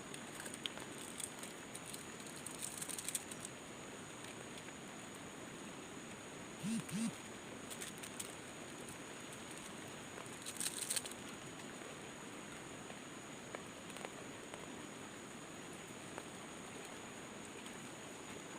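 Forest ambience: a steady high-pitched hum over a background hiss, with scattered rustles and two short low calls about seven seconds in.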